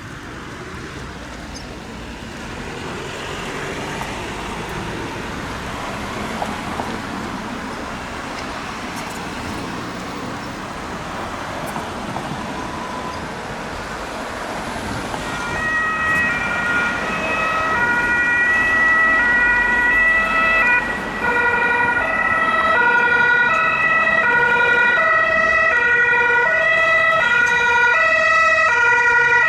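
Vehicle and road noise, then about halfway through a German two-tone emergency-vehicle siren (Martinshorn) sets in, alternating between its two pitches and growing steadily louder.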